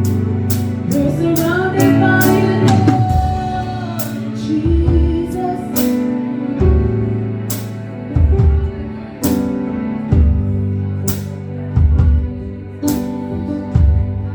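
Live gospel worship music: a band plays held chords over regular drum hits, with singing in the first few seconds.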